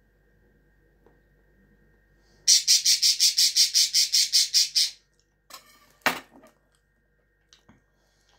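A bird calling in a fast, even run of about a dozen harsh, high chirps, about five a second, for some two and a half seconds. A sharp click follows about a second later.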